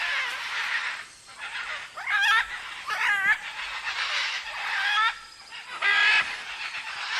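Great green macaws squawking in a squabble: four or five loud, harsh calls about a second apart, over a steady high hiss.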